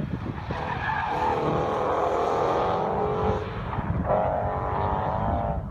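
A car being driven hard: a steady high-pitched note from the engine and tyres in two stretches of about two seconds each, with a short dip between them.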